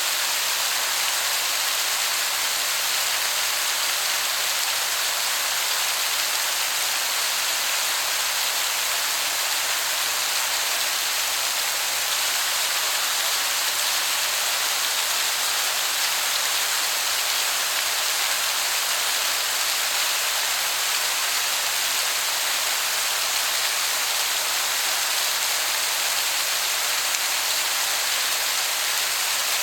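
Waterfall rushing in a steady, even hiss that sounds like heavy rain.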